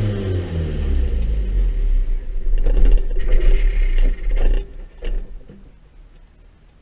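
Banger race car's engine heard from inside the stripped cabin. Its revs fall away, then it rumbles with a few sharp clunks and knocks, and stops about five seconds in.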